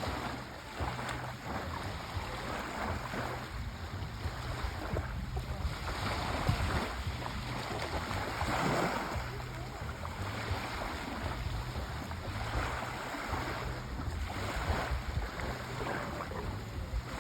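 Sea waves washing onto a shore, a continuous surf noise that swells and eases, with a larger wave about eight seconds in.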